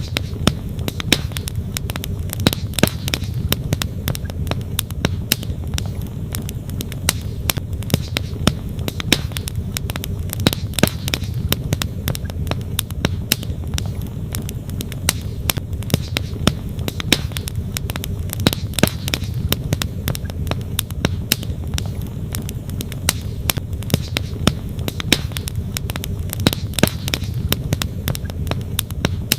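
Wood campfire crackling, with frequent irregular sharp snaps and pops, over the steady low rush of flowing stream water.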